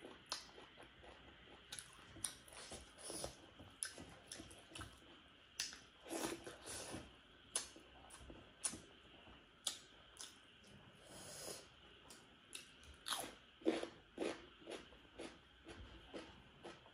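A person chewing close to the microphone: a mouthful of fried bitter gourd, with soft crunches, wet smacks and lip clicks coming irregularly throughout.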